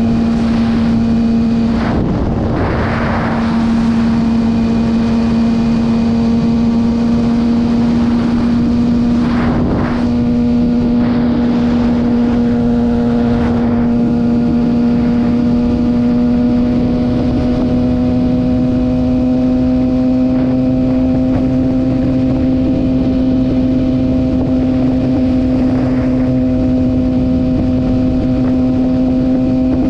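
Kawasaki ZX-6R sportbike's inline-four engine running steadily at cruising speed, its pitch creeping slowly up, under heavy wind noise. A few short whooshes break in about 3, 9 and 13 seconds in.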